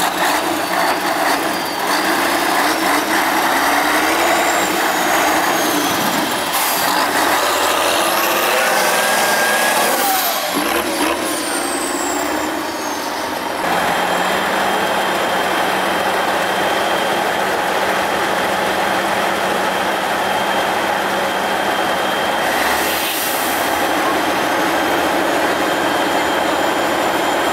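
Praga V3S 6x6 truck's engine running loud and steady, its pitch wavering up and down as it revs and labours, with short hissing bursts about six seconds in and again near twenty-three seconds.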